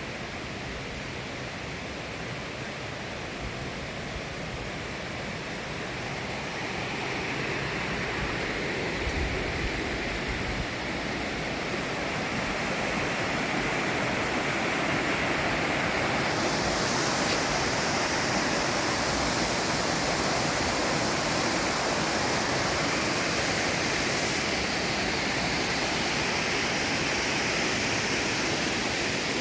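Waterfall: a steady rush of falling water that grows louder over the first half, then holds.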